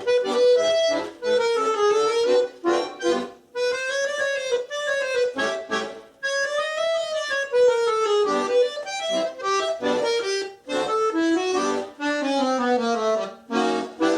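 Solo accordion playing a lively ragtime-style piece in short, detached phrases of melody and chords, with brief gaps between them.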